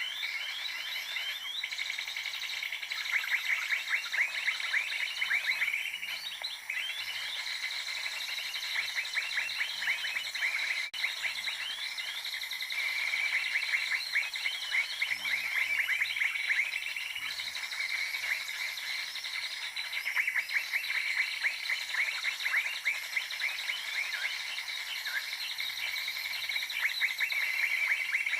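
Continuous bird song: fast, rapidly repeated chirping and trilling phrases that keep going with only brief pauses.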